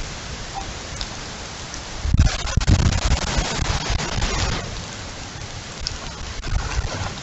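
Heavy rain pouring down in a windstorm, a dense steady hiss that swells louder with a low rumble about two seconds in for a couple of seconds, then settles back.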